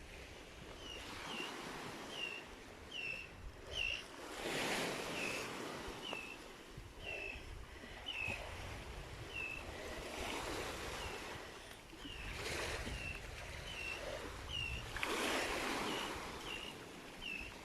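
Sea waves washing in on a stony shore in slow swells, with a small bird repeating a short chirp about twice a second.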